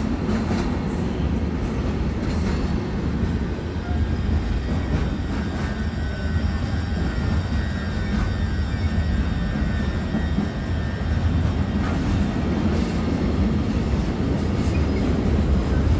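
Stansted Express electric multiple-unit train at the platform, giving a steady low rumble. Faint high whining tones sit on top of it from about four seconds in.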